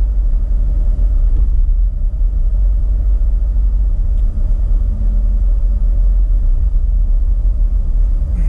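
Steady low rumble of a car driving along a city highway: engine and tyre noise from the moving car.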